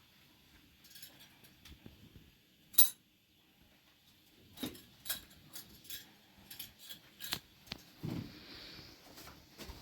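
Light clinks and clicks of small hard parts being handled during plumbing work. One sharp click comes about three seconds in, then a run of irregular clinks through the second half, with a short low thump near the end.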